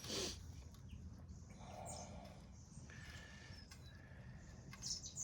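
Faint workshop handling sounds: a click at the start, light rustling and scraping, and a small knock near the end, as motorcycle parts and tools are moved about.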